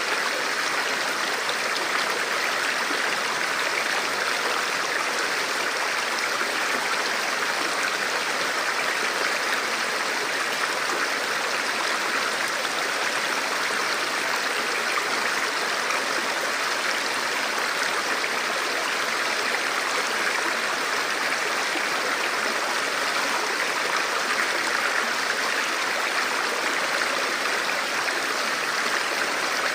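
A forest river or stream flowing over rocks: a steady, even rush of water without breaks.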